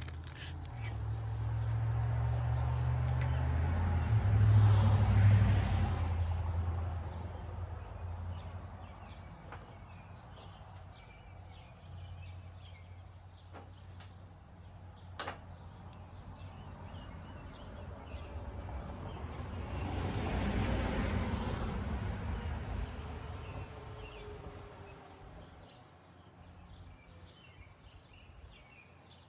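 Two vehicles passing by one after the other: the first, the loudest and lowest, swells and fades about five seconds in, and the second about two-thirds of the way through. Faint bird chirps and a single sharp click in between.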